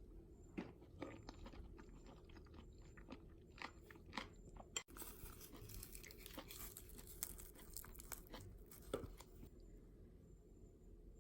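Faint crunching and chewing with small, irregular clicks, as of someone eating.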